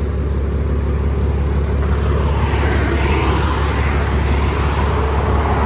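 Road traffic noise: a steady low rumble, with a vehicle swelling past from about two seconds in.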